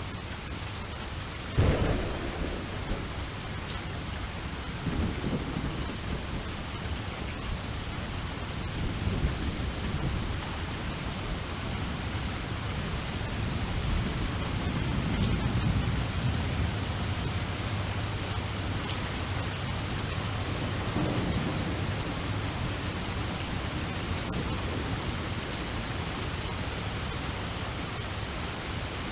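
Steady rain with thunder: a sharp thunderclap about two seconds in, then low rolling rumbles that swell and fade several times.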